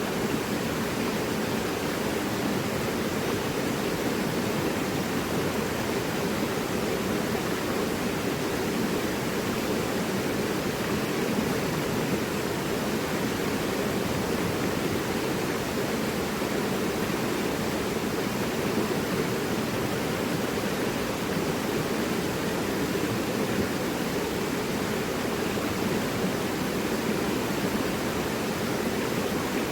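Mountain river rushing over rocks: a steady, even roar of flowing water that does not change.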